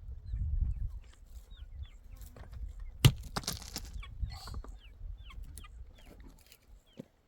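Chickens clucking, with many short falling peeps throughout. A single sharp knock about three seconds in, the loudest moment, is followed by a brief rustle.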